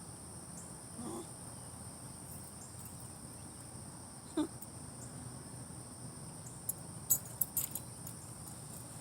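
Crickets chirping steadily in a high, even chorus, with a few sharp clicks about seven seconds in.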